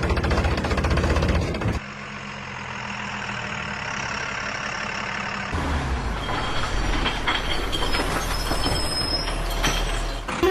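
Vehicle engines running in three short clips cut one after another, with abrupt changes about 2 and 5.5 seconds in; the last has scattered clicks over a low hum.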